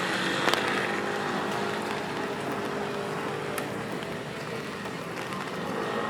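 Steady hiss of rain with traffic on a wet city street, a car passing on wet road. A couple of sharp ticks, about half a second in and near the middle.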